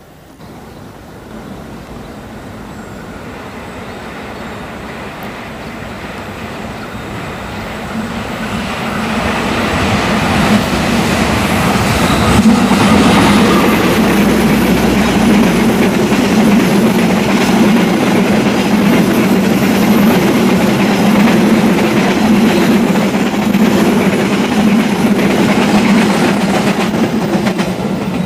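Argo Semeru express passenger train approaching and passing at speed: a rumble that grows steadily louder over the first dozen seconds, then a loud, steady rush of the coaches rolling by on the rails.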